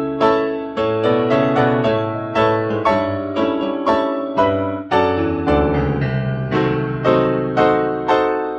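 Solo piano music: chords and melody notes struck about twice a second, each ringing and fading, over held bass notes.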